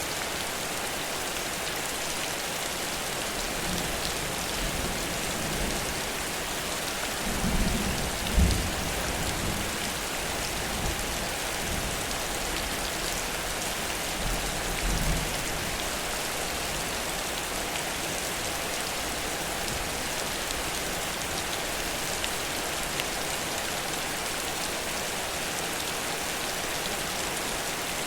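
Heavy rain pouring steadily, with two brief low rumbles, about eight and fifteen seconds in.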